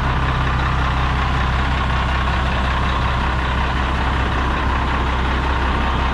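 A 1996 Ford L9000 dump truck's diesel engine idling steadily, just started after sitting for a while and warming up.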